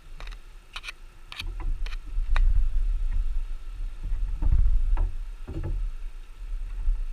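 Sharp clicks and knocks of wooden hive parts being handled, a quick cluster in the first couple of seconds and a few more around the middle, over a low rumble of handling or wind noise on the microphone.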